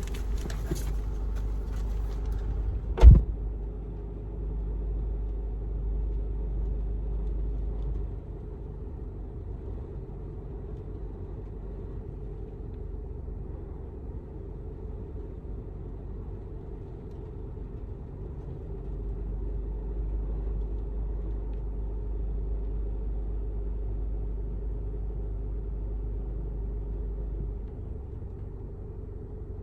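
Vehicle running at idle, heard from inside the cab: a steady low rumble that swells for a few seconds twice. One sharp knock about three seconds in.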